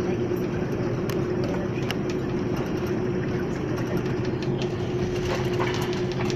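Airliner cabin noise after landing: a steady rush from the idling jet engines and air conditioning with a constant hum, and a few faint clicks.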